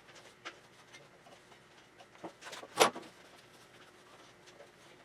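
A single sharp knock about three seconds in, among faint scattered clicks and taps of hand work on the front end.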